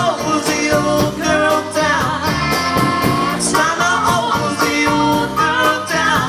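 A small rock-and-roll band playing a song live, with guitar to the fore.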